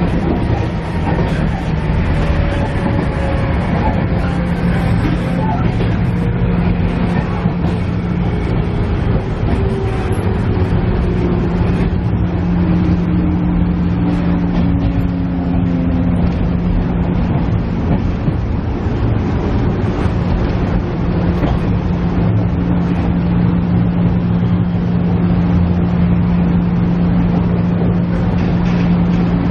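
Cabin running sound of a KiHa E130 series diesel railcar under way: a steady engine hum over the rumble of the wheels. For the first half a whining tone slides steadily downward, and then the hum carries on evenly.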